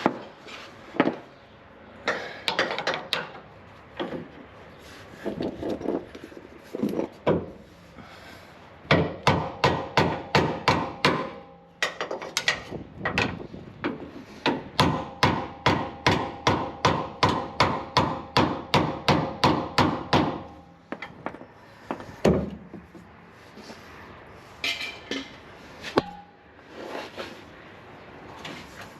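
Scattered metal knocks and clanks, then two runs of hammer blows on metal, about three strikes a second, each strike ringing. The first run is short, about two seconds in the middle; the second runs for about six seconds.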